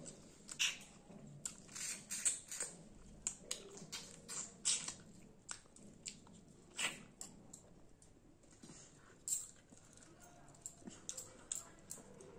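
Mouth sounds of a person eating fried fish and rice by hand: wet chewing smacks and clicks, coming thick and fast for about the first five seconds, then scattered, with a sharper smack about seven seconds in and another about nine seconds in.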